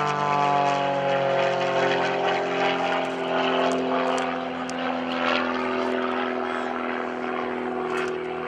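Pitts S-1S aerobatic biplane's piston engine and propeller running in flight. The pitch slides down over the first second or so, then holds steady.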